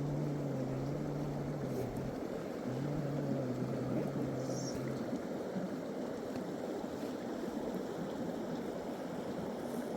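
Steady rushing noise, with a low droning hum through the first half that stops about halfway through.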